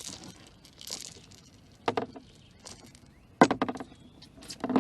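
A big catfish splashing and knocking against the boat as it is hauled in. Two short splashes come first, then three sharp thumps at about two, three and a half and nearly five seconds in; the middle thump is the loudest.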